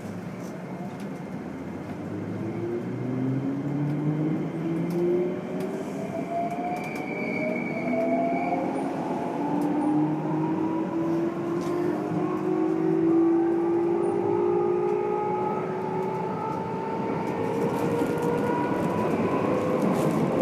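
Keikyu N1000 series set 1449's Toyo Denki IGBT VVVF inverter and MB-5121-A traction motors whining as the train accelerates, several tones climbing steadily in pitch over the running noise. This set is known for unusually loud, odd-sounding motor noise. It is heard from inside the car.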